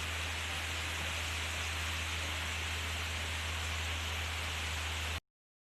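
Steady rush of falling water, an even hiss over a low hum, that cuts off abruptly a little over five seconds in.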